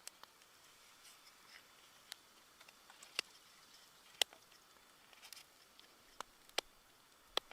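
Faint, sparse sharp pops and clicks at irregular intervals, about seven in all, over a quiet steady hiss.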